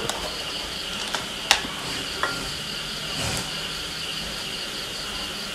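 Shrimp and garlic sizzling steadily in a steel wok over a gas flame. A few sharp clicks and one short ringing clink come from seasoning bottles being handled.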